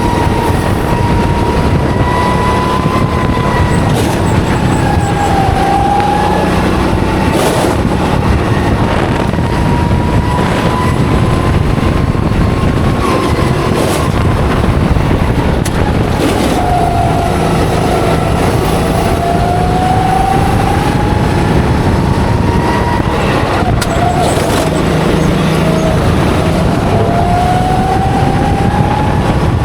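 Go-kart engine heard from onboard at racing pace, its pitch dipping through corners and climbing again on the straights, several times over. A few short knocks sound along the way.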